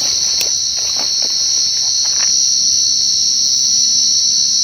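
A cricket singing one loud, continuous, steady trill, the song used to track down the burrowing field cricket (จิ้งหรีด/จิกุ่ง) to its hole. A few soft knocks come in the first two seconds.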